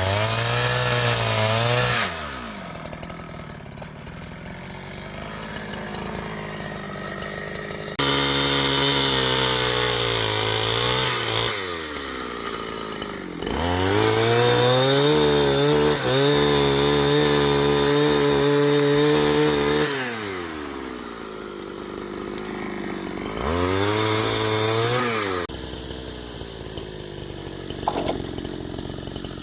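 Chainsaw revved up to full throttle four times, the longest burst about six seconds in the middle, dropping back to idle between bursts. A short knock comes near the end.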